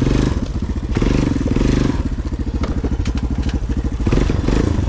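Four-wheeler (ATV) engine running as it crawls along a rough trail, the throttle swelling and easing a few times.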